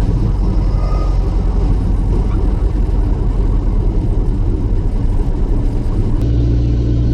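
Light single-engine piston airplane's engine droning steadily, with its low tone shifting about six seconds in.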